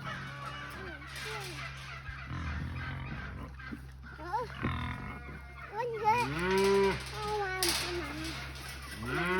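Hungry cattle mooing while they wait to be fed: a long moo a little past the middle, a shorter call before it, and another moo starting right at the end, over a steady low hum.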